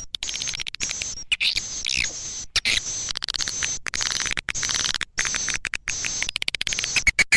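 Recorded swiftlet calls: dense high chirping and twittering, broken by many sharp clicks. This is the kind of swiftlet call recording that is played to draw swiftlets to nesting houses.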